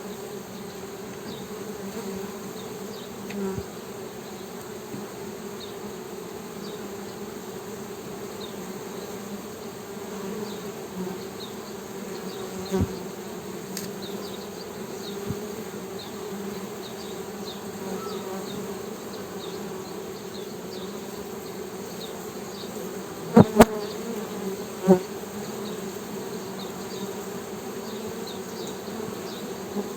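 Honey bees humming, a steady low buzz. A few sharp knocks come just before the three-quarter mark.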